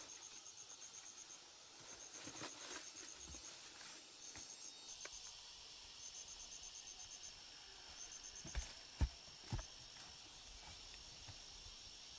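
Insects chirping in short runs of rapid high pulses, about eight a second, over a steady high-pitched drone. Near the end, three dull knocks come in quick succession and are the loudest sounds.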